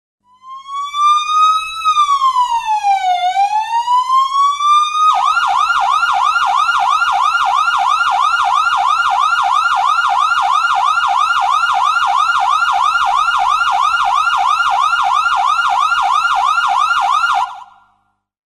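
Electronic emergency-vehicle siren. It opens with one slow wail that climbs, drops and climbs again, then switches to a fast yelp of about three quick sweeps a second, and fades out shortly before the end.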